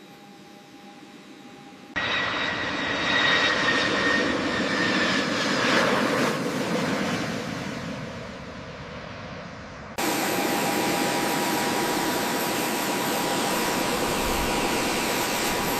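Jet aircraft engine noise in hard-cut pieces. A quieter hiss gives way about two seconds in to a loud engine rush with a high whine that fades over several seconds. About ten seconds in it switches abruptly to a steady, loud engine rush with a lower whine.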